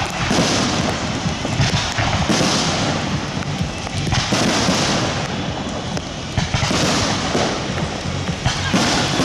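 A rapid barrage of aerial firework shells bursting overhead, with dense crackling and many sharp reports overlapping without a break. Music plays underneath.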